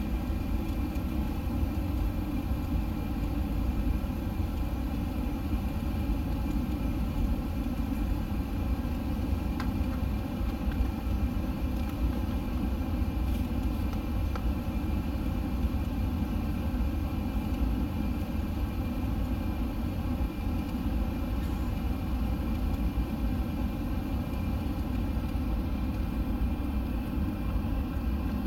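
Steady low rumble and hum of an Airbus A380's four jet engines running, with many constant tones over the rumble and no change in level or pitch.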